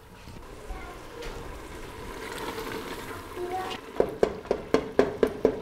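Mutton curry with yogurt and tomatoes sizzling as it is fried and stirred in a pressure cooker. About four seconds in, a wooden spoon starts knocking against the pot, about four times a second.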